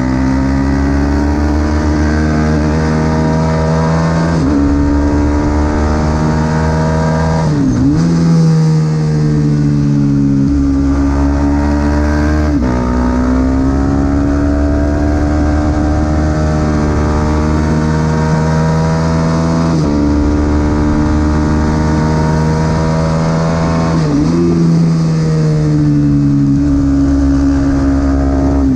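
Supersport 300 race motorcycle engine at racing speed, its note climbing steadily and then dropping sharply several times as the rider shifts gears and slows into corners.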